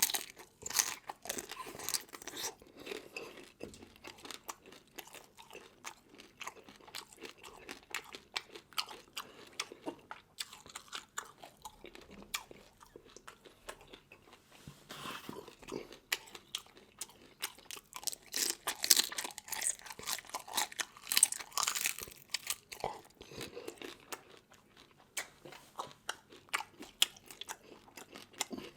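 A person chewing and crunching seafood, with many irregular crisp crunches, busiest about two-thirds of the way through.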